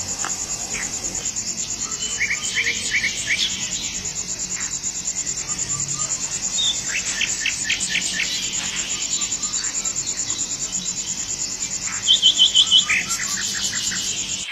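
Insects trilling steadily and high, with birds giving short chirps in quick runs over it. The loudest is a run of four chirps about twelve seconds in.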